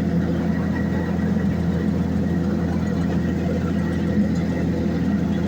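Heavy engine of road-paving machinery running steadily at an even, unchanging pitch.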